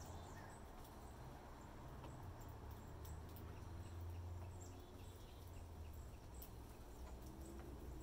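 Small birds giving faint, short high chirps scattered throughout, with a few light taps, over a low steady hum.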